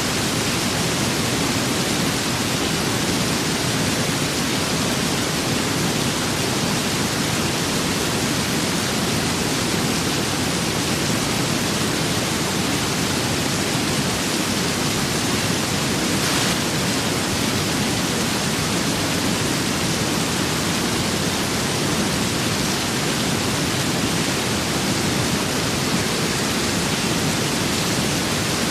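Steady rain with wind: a dense, even hiss that does not change.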